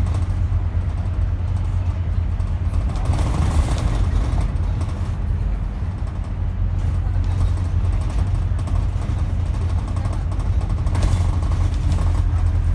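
Scania N270UD double-decker bus's five-cylinder diesel engine droning steadily as heard inside the bus on the move. Two short bursts of noise cut across it, a few seconds in and near the end.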